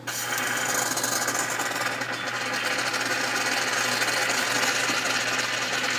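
Bellman CX-25 stovetop espresso maker hissing and sputtering as steam and coffee spurt from its spout near the end of the extraction. It starts suddenly and runs on as a loud, fast, rattling hiss over a steady low hum.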